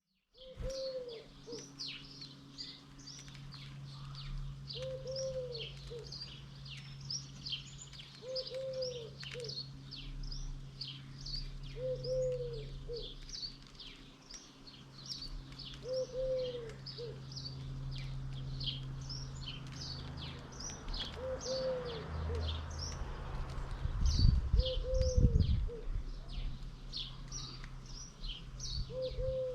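Small birds chirping busily and high-pitched throughout, with a dove cooing the same low, rounded call about every four seconds. A steady low hum lies underneath, and a loud low rumble comes about three-quarters of the way through.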